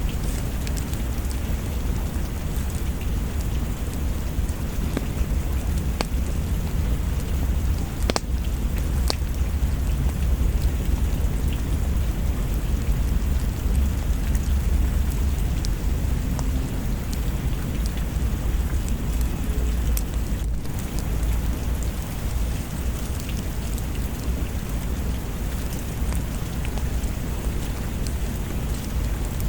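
Steady rain with a low rolling thunder rumble that swells in the middle, and a few sharp pops scattered through it.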